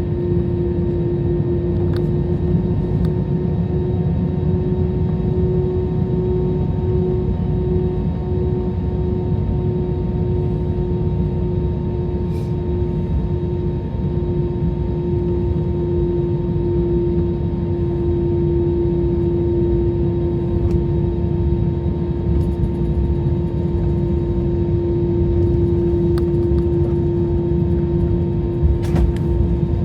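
Steady airliner cabin noise: a low rumble with a constant droning hum, broken by a few faint clicks.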